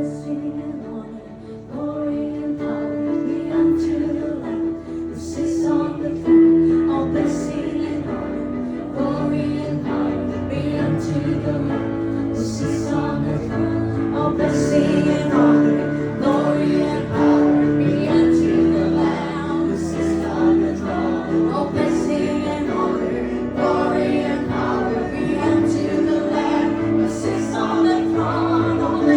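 Live acoustic worship music: several voices singing together over a strummed acoustic guitar, growing louder over the first two seconds and then carrying on steadily.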